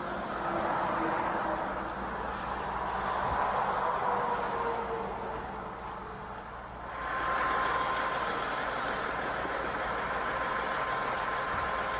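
Road vehicle noise: engine and tyre sound that swells and fades, with a steady whine from about seven seconds in.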